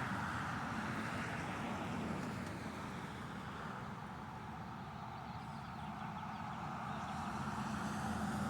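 Road traffic noise: a steady rumble of passing vehicles that eases off in the middle and builds again near the end.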